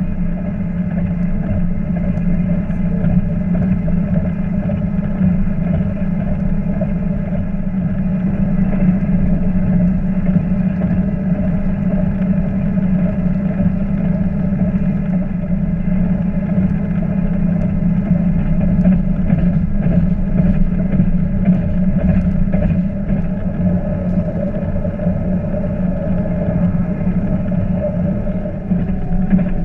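Diesel passenger train running at speed, heard from inside the carriage: a steady engine drone with rumbling wheels on the track beneath it. The level dips briefly near the end.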